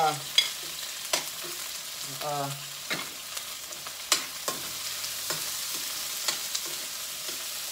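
Seafood mix sizzling as it fries in a pan on a gas burner, with a utensil clicking against the pan now and then as it is stirred.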